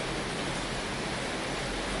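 Steady heavy rain on a tin roof: a dense, even hiss with no single drops or thunder standing out.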